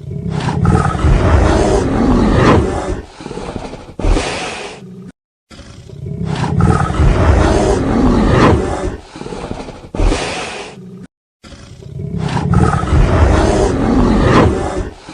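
An animal roaring loudly, the same roar played three times in a row, each lasting about three and a half seconds.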